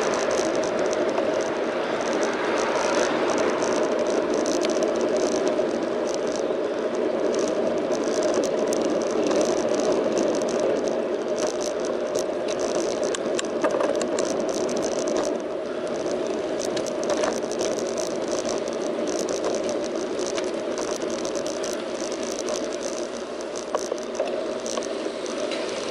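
Bicycle in motion, heard from a camera mounted on the bike: steady tyre and wind noise with frequent small, irregular rattles and clicks from the bike.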